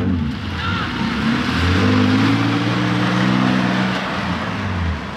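Infiniti G35 coupe's engine holding steady revs for a few seconds over a loud rushing hiss, fading near the end as the car moves off.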